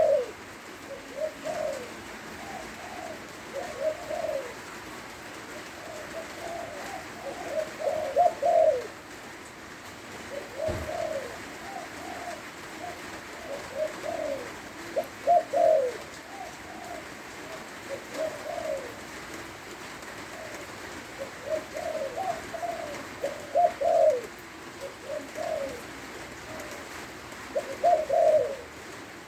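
Spotted dove cooing, repeating short phrases of soft low coos over and over, a phrase every second or two.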